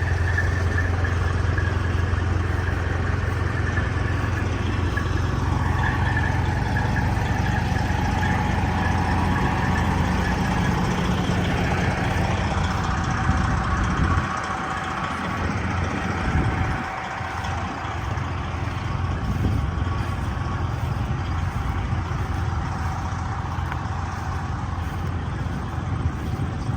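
An engine running steadily with a low hum; about halfway through the low hum cuts off suddenly, leaving quieter, uneven engine noise.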